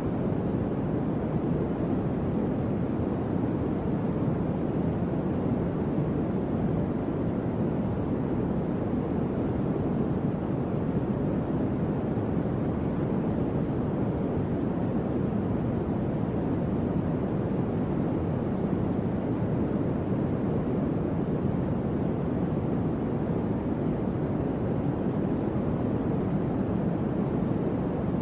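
Electric fan running steadily: an even, deep rush of moving air that does not change.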